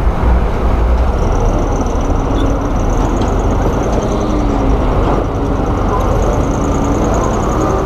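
Heavy diesel earthmoving machinery running: a loud, steady low engine rumble. A faint high whine joins it about a second in.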